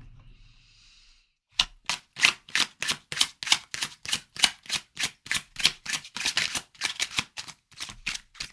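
Tarot deck being shuffled by hand: short, sharp card strokes in an even rhythm of about three a second, starting about a second and a half in.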